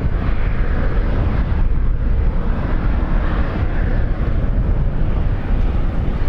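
Wind buffeting the microphone: a steady low rumble with uneven rushing noise.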